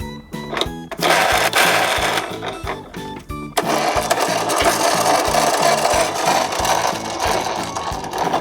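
Toy miniature garbage trucks rolling down a slope track with a continuous rattling clatter of small wheels, in two runs: one starting about a second in and stopping after a few seconds, the next starting right after and fading near the end. Background music with a steady beat plays underneath.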